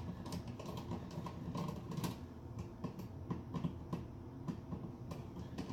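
Irregular light clicks and taps of hand-work on a wall switch and its electrical box.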